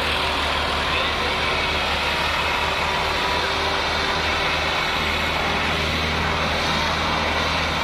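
Millat (Massey Ferguson-built) tractor's diesel engine running steadily with a constant low engine note.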